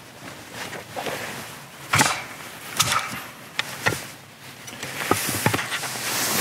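Irregular sharp knocks of a nata, a Japanese single-bevel hatchet, tapping against a piece of firewood, about half a dozen strikes.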